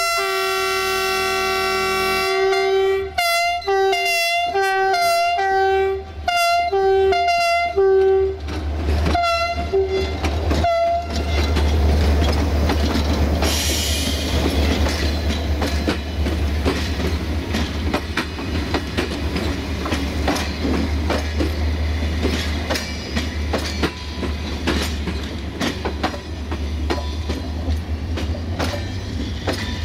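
Diesel locomotive horn: one held note, then a rapid string of short blasts, over a low engine rumble. From about 11 s in, the train rolls past with the engine running and wheels clicking over the rail joints.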